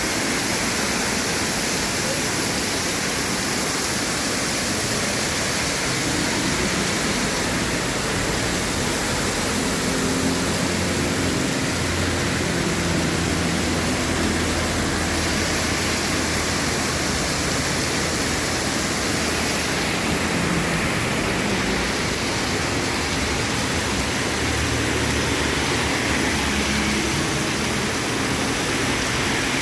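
Heavy rain pouring down in a steady, loud hiss, with a low rumble in the middle and again near the end.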